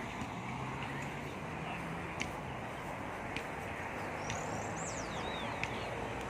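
Steady outdoor background noise with a low hum, scattered sharp ticks, and a few high bird chirps near the middle.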